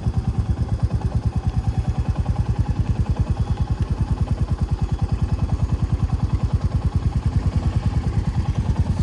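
Motorcycle engine running steadily at low revs, with an even low thumping of about seven beats a second.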